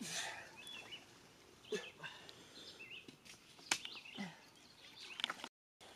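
Faint outdoor ambience with small birds chirping now and then, a few sharp clicks (the loudest about three and a half seconds in), and the sound cutting out completely for a moment near the end.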